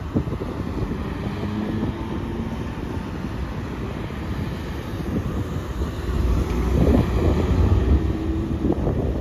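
Wind buffeting the microphone outdoors, with a faint steady engine drone underneath. The wind rumble grows stronger about two-thirds of the way through.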